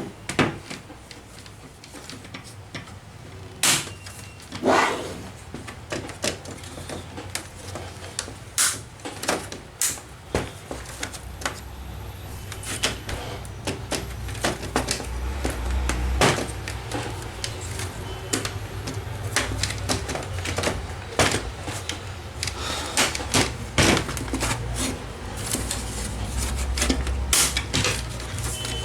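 Plastic palm rest of a Dell Inspiron 15 3000 laptop being pried off its base: irregular sharp clicks and snaps of its clips letting go, with rubbing and handling of the plastic casing.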